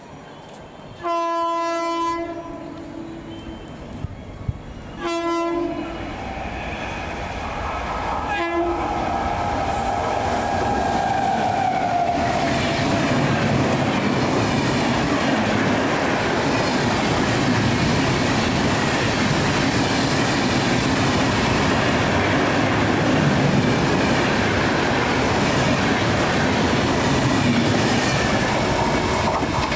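Express train approaching at speed: its locomotive horn sounds three times, a longer blast then two shorter ones. The train then passes close by with a loud, steady rumble and clickety-clack of wheels over the rail joints.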